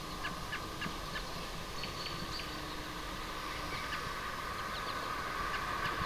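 Short, scattered bird chirps over a steady background hum.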